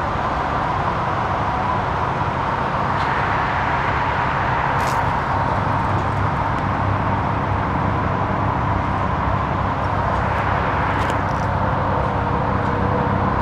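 Steady vehicle engine hum mixed with traffic-like noise, with a constant thin whine over it.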